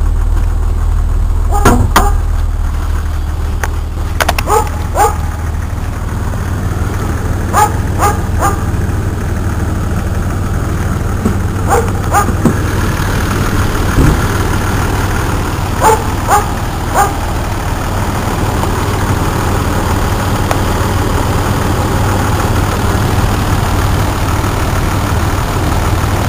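Jeep 4.0-litre straight-six engine idling steadily and smoothly, a strong-running engine. Over it, a dog barks in short twos and threes several times.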